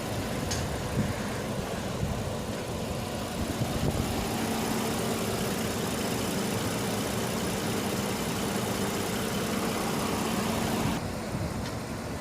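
2017 Bentley Bentayga's twin-turbocharged W12 engine idling steadily; the sound changes abruptly near the end.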